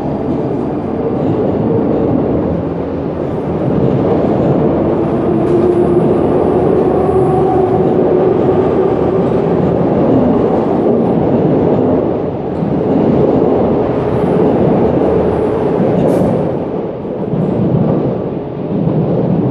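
SNCF Z 20500 double-deck electric multiple unit departing from an underground station: a continuous rumble of wheels on rails with a steady motor hum as the cars pass. It rises and falls as the cars go by and begins to ease near the end as the last car clears the platform.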